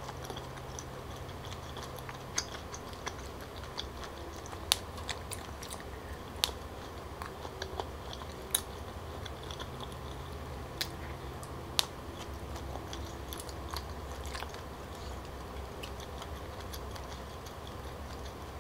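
Close-miked chewing of chewy Korean rice cakes (tteokbokki), with scattered sharp clicks over a steady low hum.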